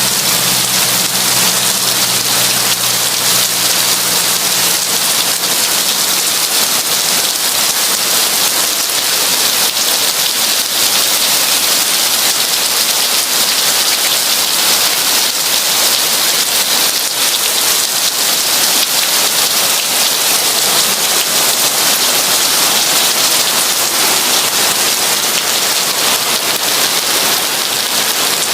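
Heavy rain pouring steadily, a dense, even hiss of drops with no thunder.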